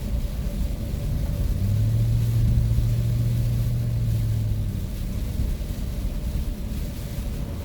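Van engine and road noise heard from inside the cabin while driving, a steady low rumble. A stronger low hum comes in about a second and a half in and fades out about three seconds later.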